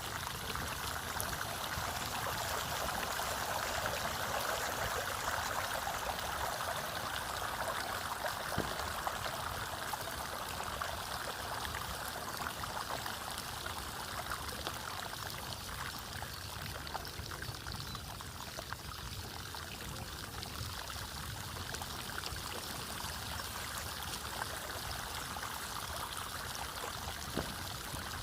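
Floodwater running steadily with a constant rushing sound, a little stronger in the first ten seconds or so and then easing slightly.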